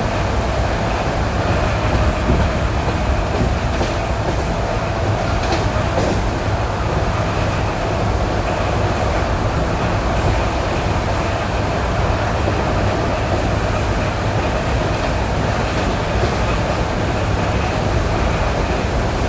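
ED9E electric multiple unit running at speed on jointed rail, heard from inside the car: steady rolling rumble with a steady hum, and wheels knocking over rail joints now and then.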